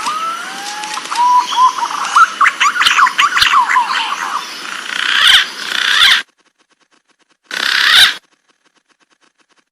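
Green pigeon (punai) calling: a couple of whistles gliding upward, then a quick run of short warbling whistle notes over a hiss, breaking off about six seconds in. A brief burst of noise follows near the end.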